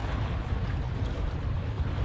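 Steady low rumble of wind and ocean surf on the shore.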